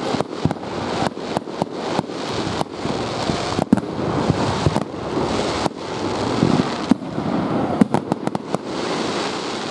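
Fireworks going off: irregular sharp bangs and pops, several a second with a quick flurry near the end, over continuous crackling.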